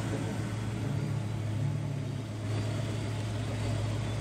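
Car engine idling steadily, a constant low drone.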